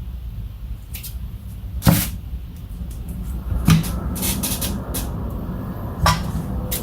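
Plastic clicks and knocks from handling the parts of a car instrument cluster, with a sharp knock about two seconds in, another near the middle followed by a quick run of ticks, and one more near the end. A steady low rumble runs underneath.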